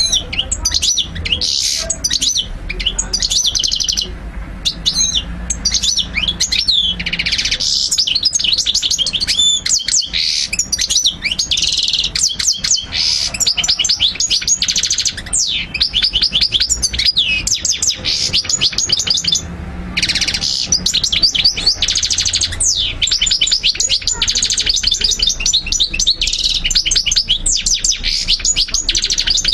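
European goldfinch singing a long, rapid twittering song of fast chirps and trills, with a short break about two-thirds of the way through.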